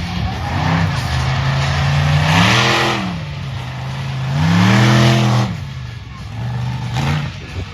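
Monster truck engine revving in two big swells, the pitch climbing and falling back each time, with a steady lower running note between and a short blip near the end.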